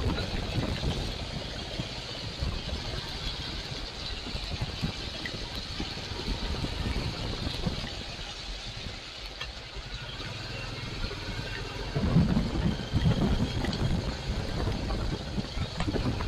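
Royal Enfield Classic 350 single-cylinder engine running under a ride-along mic, with road and wind noise. About eight seconds in it settles to a steady idle, and about twelve seconds in it grows louder again as the bike pulls away.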